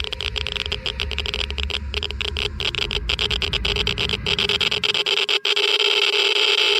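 Geiger–Müller counter clicking rapidly at irregular intervals, each click a detected ionizing particle, over a steady droning tone. A low rumble underneath stops about five seconds in.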